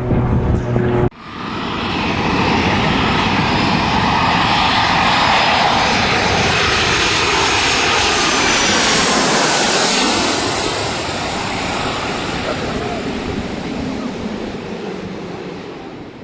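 An airplane flying past at an air show: loud engine noise that swells in a couple of seconds, holds, then fades away near the end. About a second in, a short steady pitched sound cuts off as the aircraft noise begins.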